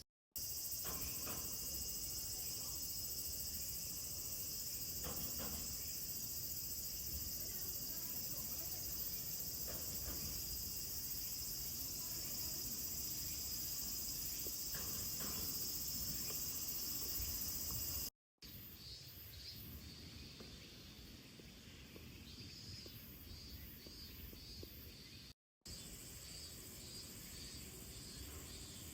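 High, steady chorus of insects trilling. It cuts off abruptly about 18 seconds in, giving way to quieter, evenly repeating high chirps. A steady high trill returns after another abrupt cut near 25 seconds.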